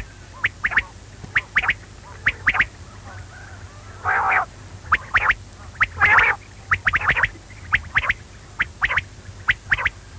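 Quail calling: short, sharp notes repeated in quick groups of two or three, with a longer, harsher call about four seconds in and another about six seconds in.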